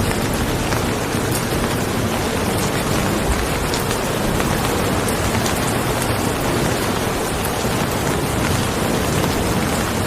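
Steady rain falling, a dense, even hiss with fine drop ticks throughout.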